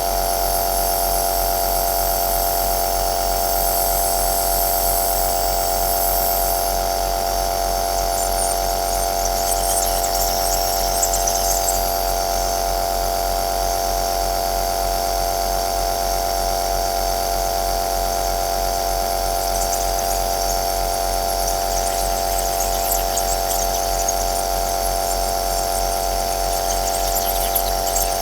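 Compressor nebulizer (aerosol machine) running steadily: a constant motor hum with a strong steady tone and an airy hiss, with faint crackling in the hiss now and then.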